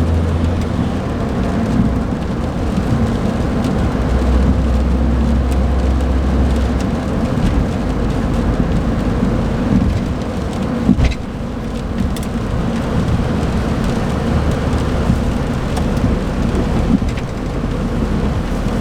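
Cabin noise of a 2008 Smart ForTwo's 1.0-litre three-cylinder engine pulling on the road, mixed with steady road and tyre noise. The engine note steps between levels as the automated gearbox shifts, and there is one sharp knock about eleven seconds in.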